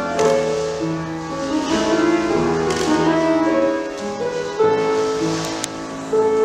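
Classical-style piano music, a melody of changing notes over held bass notes, as played to accompany ballet barre exercises.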